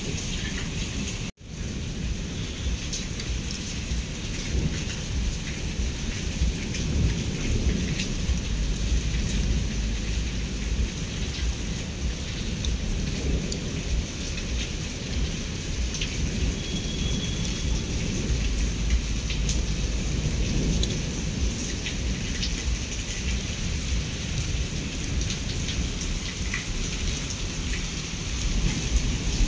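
Steady rain falling, with raindrops ticking on nearby surfaces and a low rumble underneath that swells twice. The sound cuts out for an instant about a second in.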